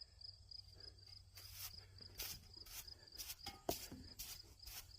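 Crickets chirping in a steady, evenly pulsed high trill, with scattered light clicks from about a second and a half in.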